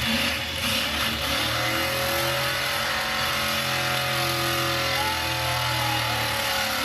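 Demolition derby pickup truck engine revving and running hard, its pitch holding fairly steady with slight rises and falls.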